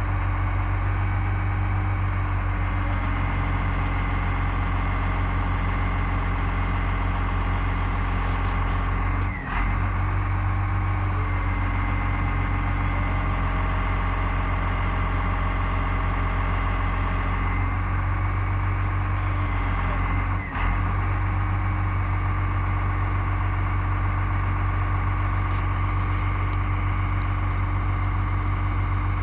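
Ford bucket truck's diesel engine idling steadily, with a steady whine over the low engine note and two very short breaks.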